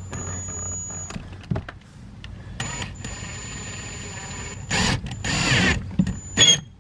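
Plastic engine undercover being handled and fitted back under the car: irregular scraping and knocking, with two louder scrapes a little before and after the five-second mark.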